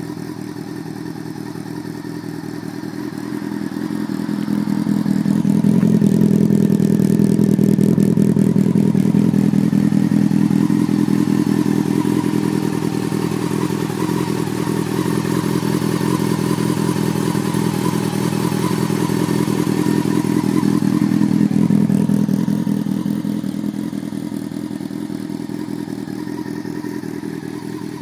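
Yamaha R6 inline-four idling steadily through a custom under-tail link pipe and cut-down Viper silencer, its pitch unchanging; the exhaust note grows louder a few seconds in, holds, then fades back down near the end.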